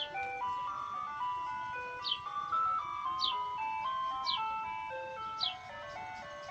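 Ice cream truck chime playing its electronic jingle: a simple melody of clean, evenly stepped notes, with a short high falling chirp about once a second.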